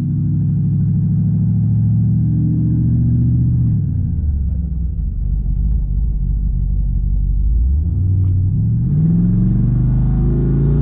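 Twin-turbo GMC's engine pulling under acceleration, its pitch rising for about three seconds, then dropping back to a low rumble about four seconds in. Near the end it climbs again, with a high hiss rising over it.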